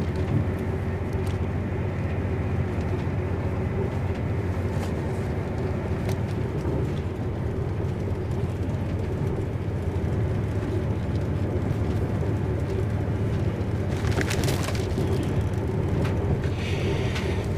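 Steady low rumble of a moving passenger train heard from inside the carriage, with a few faint clicks and a short hiss about three-quarters of the way through.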